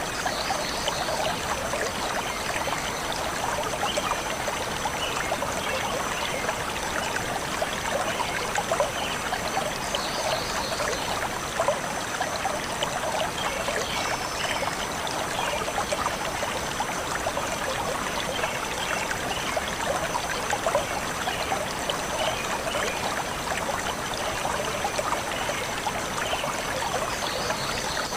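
Shallow stream flowing and trickling over stones in a steady, even rush, with a few short, faint high chirps from birds above it.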